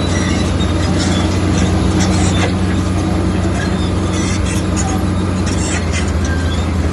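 Komatsu bulldozer's diesel engine running steadily at a constant pitch, with scattered short metallic clanks over it.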